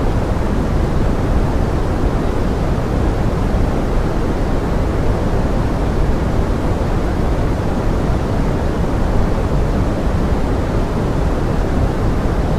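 Steady pink noise blended with forest rain: an even, unbroken rushing hiss, heaviest in the low end.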